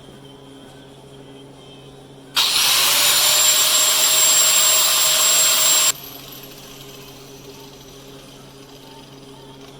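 Power grinder spinning up and running loud for about three and a half seconds, then cutting off suddenly, as used to grind out a crack in a cast-iron engine block.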